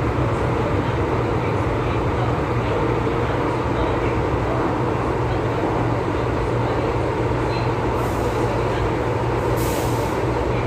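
MTR East Rail Line MLR electric train running between stations, a steady rumble with a constant motor hum heard from inside the carriage. Two short hisses come near the end.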